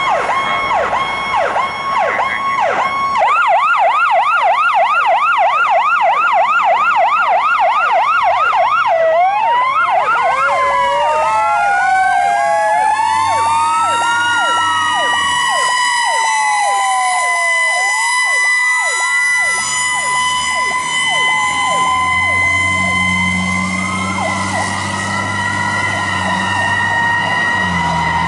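Fire engine sirens on a response run: an electronic siren in a fast yelp that changes about ten seconds in to a slow rising and falling wail, while a second siren winds up to a steady high pitch and begins to fall near the end, over the engine's low hum.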